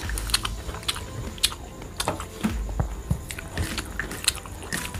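Close-up eating sounds: wet chewing and mouth clicks while eating rice and curry by hand, with irregular sharp clicks several times a second and a few dull low thumps, as fingers mix the rice on a steel plate.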